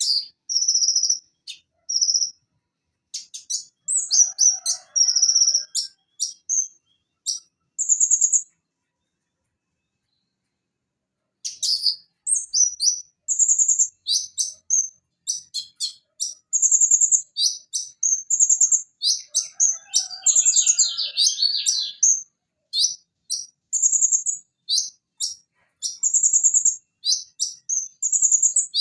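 Konin sunbird (kolibri ninja, Leptocoma sperata) singing a fast string of high-pitched chirps and short trills. It falls silent for about three seconds partway through, then resumes in a dense, unbroken run.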